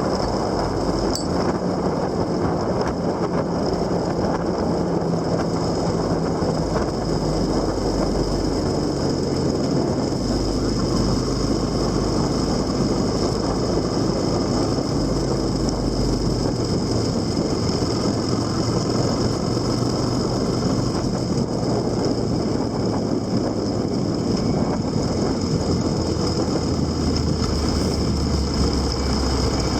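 Motorcycle engine running while riding, its low note shifting in pitch a few times, under steady wind and road noise.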